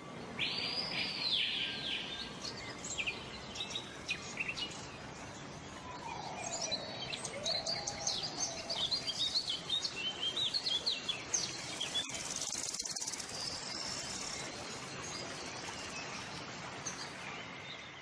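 Birds chirping and singing in many short calls, with a lower gliding call about seven seconds in, over a steady background hiss of outdoor ambience.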